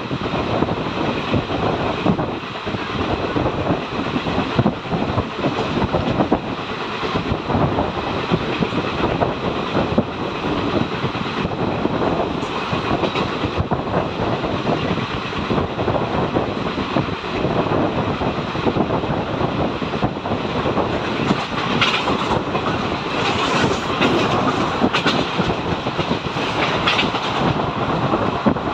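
Indian Railways express passenger coach running at speed, heard through the open window: a steady rumble of the wheels on the track with repeated clicks as they pass over rail joints.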